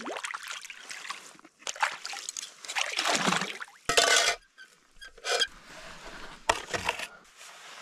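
Water splashing and sloshing in a series of irregular bursts as camp dishes are washed by hand, with one short, sharper splash about four seconds in.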